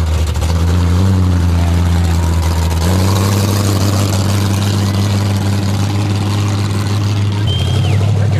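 Muscle car engine running loud through open exhaust headers, holding steady and then stepping up to a higher pitch about three seconds in.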